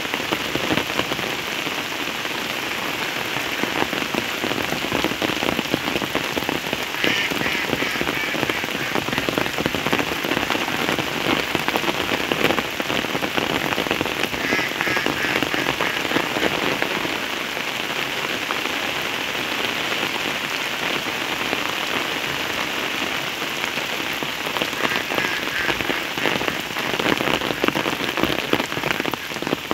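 Steady rain falling on surfaces: a dense, even patter of drops.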